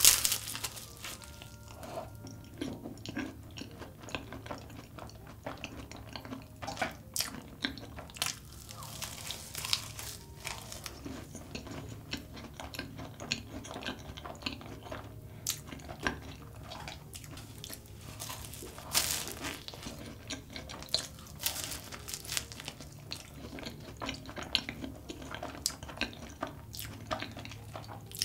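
Close-miked chewing and biting of a large custard cream puff (choux pastry) drizzled with melted Nutella chocolate: a run of irregular mouth clicks and smacks.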